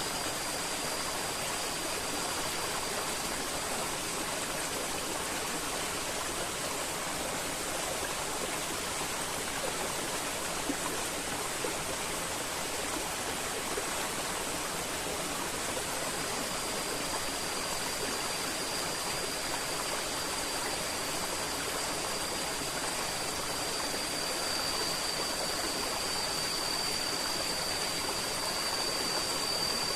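River water flowing with a steady, even rushing sound. A thin, steady high-pitched tone sits on top near the start, comes back about halfway through and grows louder toward the end.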